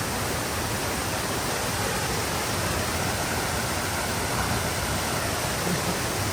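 Steady rushing of flowing forest stream water.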